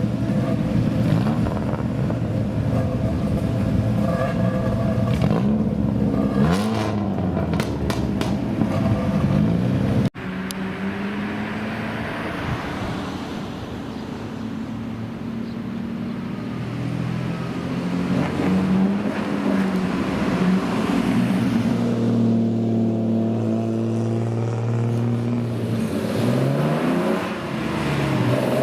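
Engines of modified old Japanese cars (kaido racers) running and revving as they drive in and out, the pitch rising and falling. There is a sudden cut about ten seconds in, and after it the engines run more steadily.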